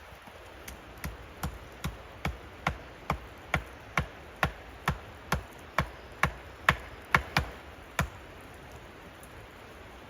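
A rapid, even series of about eighteen sharp strikes, roughly two and a half a second, growing louder in the later blows and stopping about eight seconds in, as of a hand tool chopping or hammering.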